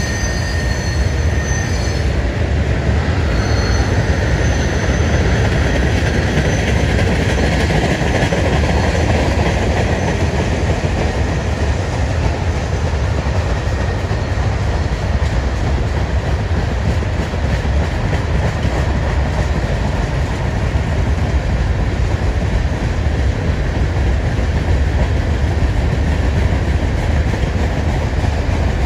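Freight cars of a long mixed train, tank cars, covered hoppers and boxcars, rolling past on jointed track: a steady rumble of wheels on rail, with thin high wheel squeals in the first few seconds.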